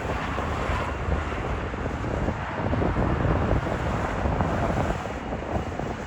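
Wind buffeting the microphone over a steady low rumble of jet aircraft at the airport.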